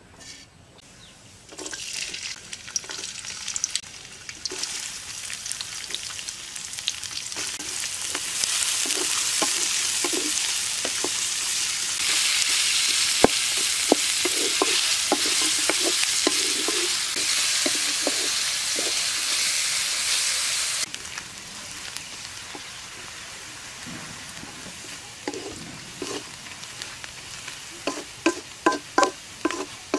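Cumin seeds, then sliced onions and garlic, sizzling in hot oil in a metal karahi, stirred with a wooden spatula that taps and scrapes the pan. The sizzle swells to its loudest in the middle and drops off sharply about two-thirds of the way through, with quick, regular scraping strokes near the end.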